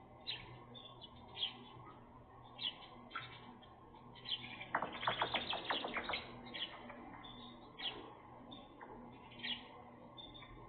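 Several small birds chirping with short, repeated calls. About halfway through there is a louder rapid run of notes lasting about a second and a half.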